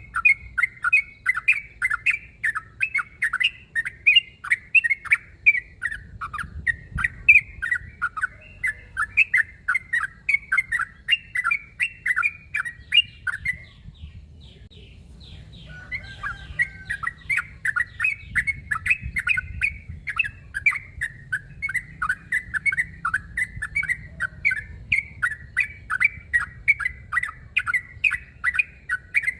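Yellow-vented bulbul (trucuk) giving rapid chattering calls, short chirpy notes about two to three a second, with a pause of about two seconds midway. These are the bird's aggressive fighting calls, used to challenge a rival.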